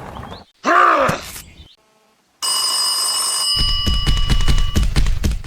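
A short groan-like voice sound, then an electric telephone bell starting to ring rapidly and steadily about two and a half seconds in, with a low rumble under it for the last couple of seconds.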